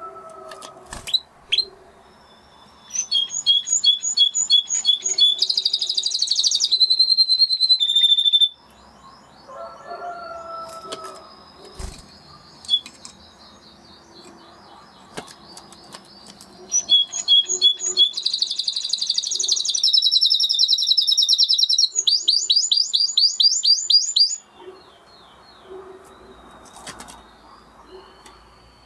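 Spanish Timbrado canary singing two long phrases of fast, high repeated notes and trills, one starting about three seconds in and another about seventeen seconds in. Between the phrases there are quieter, lower calls and a few sharp clicks.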